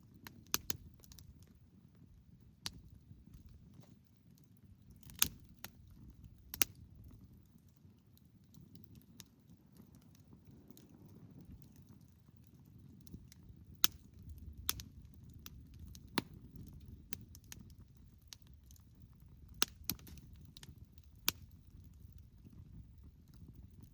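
Wood campfire crackling: firewood popping in sharp, irregularly spaced snaps, several of them loud, over a low steady rumble.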